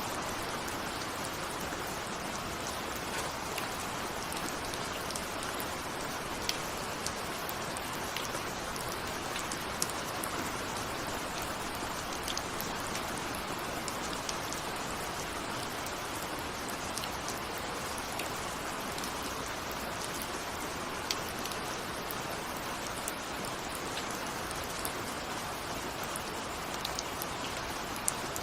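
Steady rain falling, an even hiss with scattered sharp drop ticks, described as raindrops on a window.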